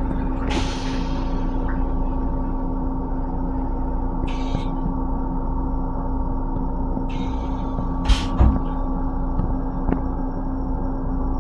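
Steady multi-tone electrical and ventilation hum inside an M7 railcar restroom, with a few short bursts of hiss and two sharp knocks a little after eight seconds.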